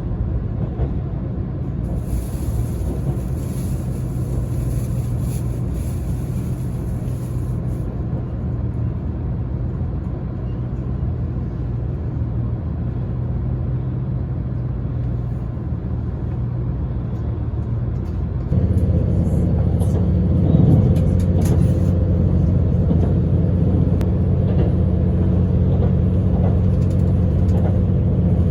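Inside a diesel limited express train under way: a steady rumble of the running gear on the rails with a low engine hum. About eighteen seconds in, the engine hum grows louder and stays so, as the engine takes on more power.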